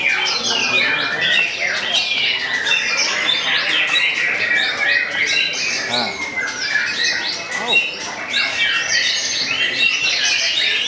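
White-rumped shama (murai batu) singing without pause: a rapid, varied run of sharp whistled notes that sweep up and down.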